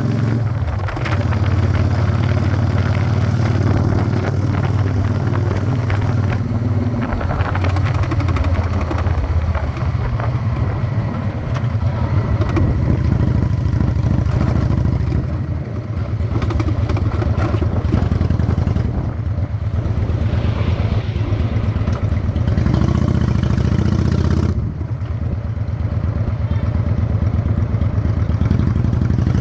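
Honda Shadow 600 V-twin motorcycle engine running while the chopper is ridden, a steady low exhaust pulse. The level dips briefly about halfway through and again near the end.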